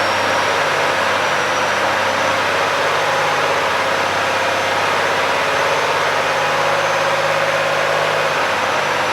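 Volvo FH460 truck's 13-litre six-cylinder diesel idling steadily.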